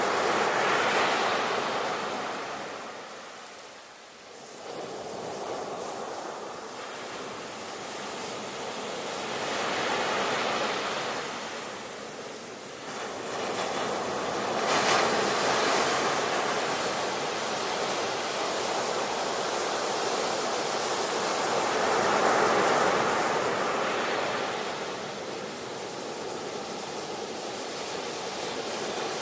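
Ocean waves breaking and washing in, a steady surf rush that swells and ebbs with each wave every few seconds.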